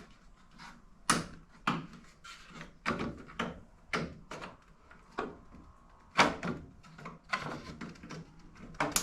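Irregular sharp knocks and clicks of stiff old plastic interior car trim being pushed and tapped into place, about a dozen, the loudest about six seconds in.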